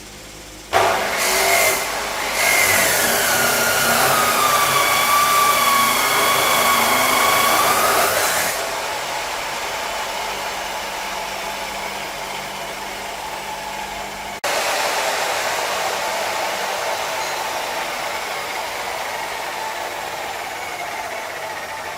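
A motor running with a whine that drops in pitch over a couple of seconds, then holds steady and cuts out about eight seconds in. A steady rushing noise carries on after it.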